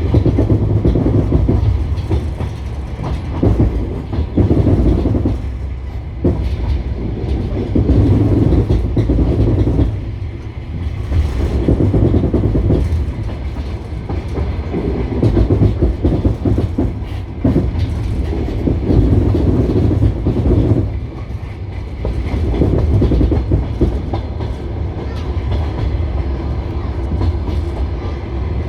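Passenger train carriage running along the line: wheels clicking over rail joints over a steady low rumble, which swells and fades every few seconds.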